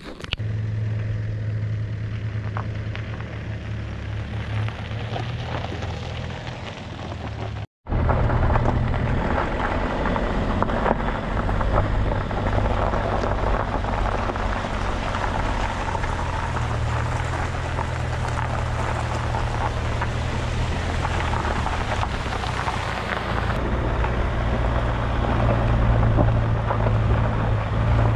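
Van driving on the road: a steady low engine drone under a wash of road and wind noise. It breaks off for an instant a little under 8 seconds in and is louder after.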